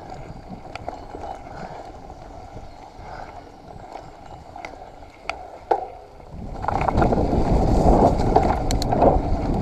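Mountain bike rolling over a wet, muddy trail, with scattered clicks and rattles from the bike; about six and a half seconds in the rolling and rushing noise grows much louder and stays loud.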